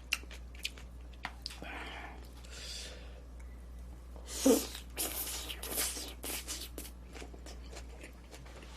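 Close-miked mouth sounds of eating: wet chewing with many small clicks and smacks, and a sudden loud breathy burst about four and a half seconds in, followed by a run of short noisy bursts.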